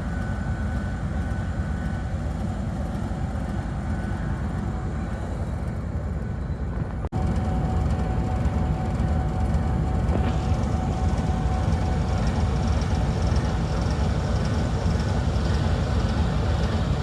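Steady low rumble of a train. About seven seconds in there is an abrupt break, and after it the rumble is a little louder, with a faint steady whine over it.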